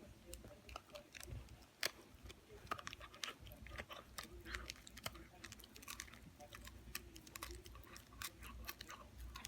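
A retriever puppy gnawing and tearing at a dog chew, with irregular crunching and clicking bites.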